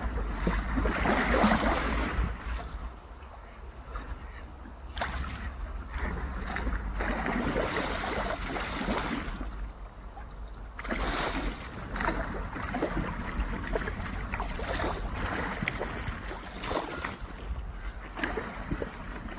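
Wind buffeting the microphone with a constant low rumble, over sea waves whose noise swells and fades every few seconds.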